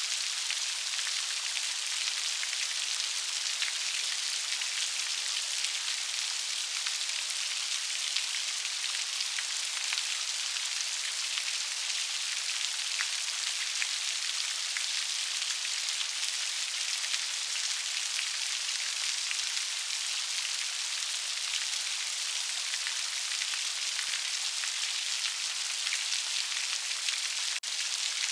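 Steady rain falling, an even hiss made up of many small raindrop impacts.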